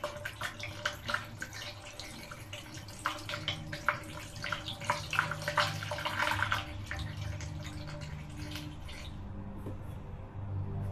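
Evapo-Rust rust remover being poured from a jug into a motorcycle's metal fuel tank, with many irregular splashes for about the first six seconds. It then settles into a steadier, softer pour that dies away near the end, over a steady low hum.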